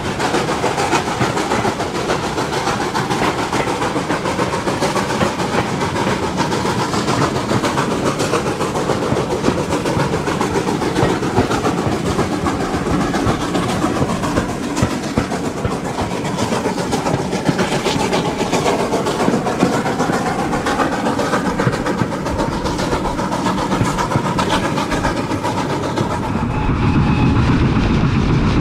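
Steam-hauled train running along the line, heard from a carriage: a steady rush of running noise with wheels clicking over the rail joints. Near the end it becomes louder and deeper.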